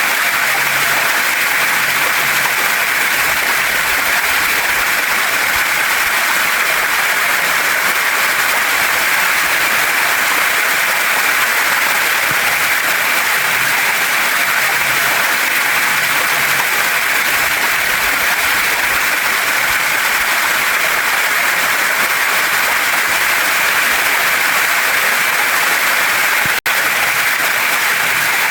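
Steady rushing hiss of a small waterfall and stream pouring over rocks, even and unbroken except for a split-second dropout near the end.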